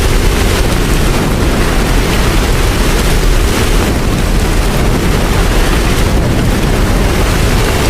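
Steady heavy rain: a dense, even hiss with a deep low rumble underneath and no separate drops or strikes standing out.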